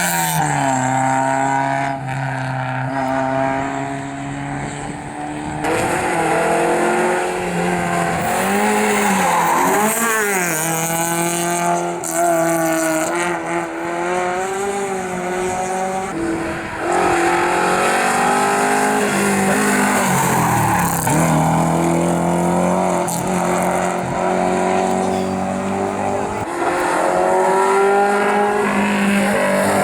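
Rally cars racing through a special stage one after another, each engine revving hard and dropping sharply through braking and gear changes, with tyre squeal at times.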